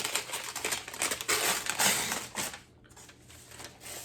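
A record sleeve being handled and ripped: dense crinkling and tearing for about two and a half seconds, then only faint rustles.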